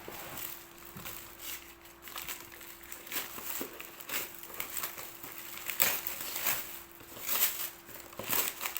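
Gift wrapping crinkling and rustling in irregular bursts as presents are handled and unwrapped, busiest near the end, over a faint steady hum.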